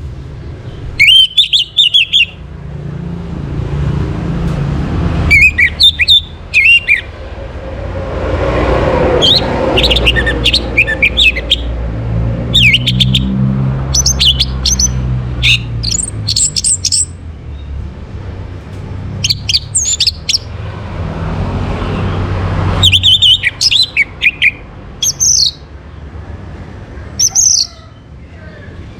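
Orange-headed thrush singing, short bursts of high, quickly varied phrases repeated every few seconds. A low rumble runs underneath.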